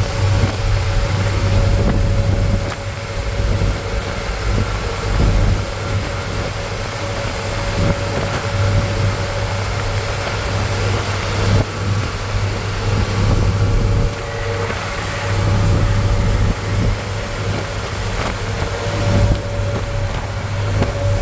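Truck engine running with a steady low drone and a noisy rush of road noise.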